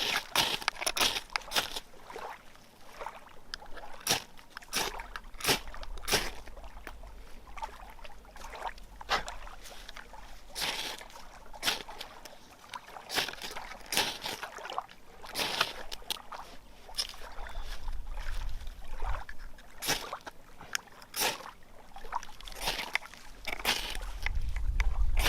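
Ferro rod (fire steel) being struck over a pile of wood shavings to light a fire: a run of short, raspy scrapes at an uneven pace, about one or two a second. A low rumble rises near the end.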